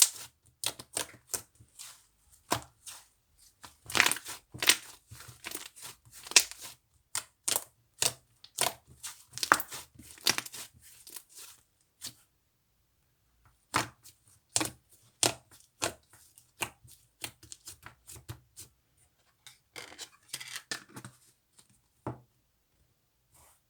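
Slime being squeezed and pressed by hand, making quick runs of sharp crackling and popping. There is a short pause about halfway through, and the pops thin out near the end.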